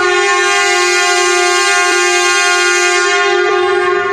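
Horn of a Series 0 Shinkansen train sounding one long, steady blast that starts abruptly.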